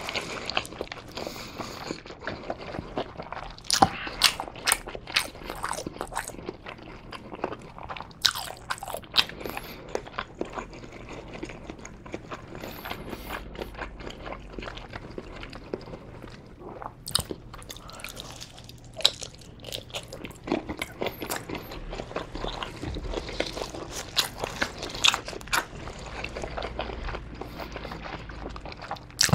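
Close-miked chewing and biting of Korean blood sausage (sundae), a dense run of irregular sharp mouth clicks.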